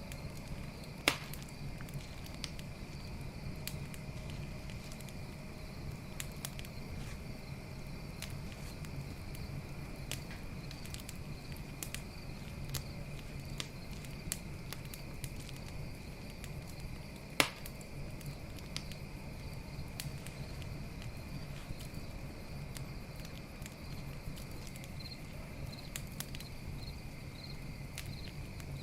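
Campfire crackling with scattered sharp pops, two much louder snaps about a second in and about halfway through, over a low steady rumble of the fire. Crickets chirp steadily throughout.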